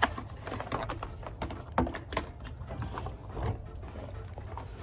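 Wet/dry vac and its hose being handled and moved into place: scattered clicks and knocks over a low steady rumble. The vac is not running.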